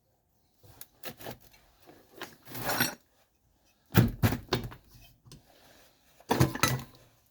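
Tools and metal engine parts knocked and handled on a workbench, in four short bursts of clatter, with the loudest sharp knocks about four seconds in and again near the end.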